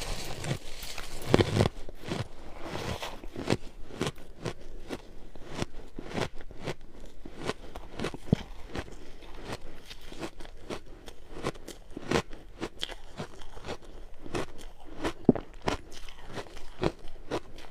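Ice being bitten and chewed close to the microphone: a louder crunching bite in the first two seconds, then a steady run of sharp, crackling crunches.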